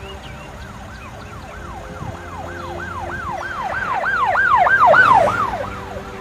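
Emergency vehicle siren going by in a fast yelp, about three rising-and-falling sweeps a second, growing louder to a peak about five seconds in, then fading and dropping in pitch as it passes.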